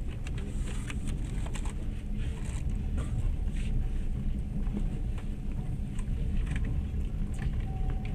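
Passenger train running, heard from inside the carriage: a steady low rumble with scattered clicks and rattles.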